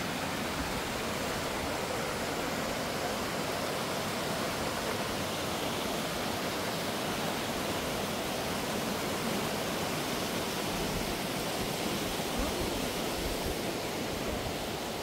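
Steady rushing of water from a small stream and little waterfalls.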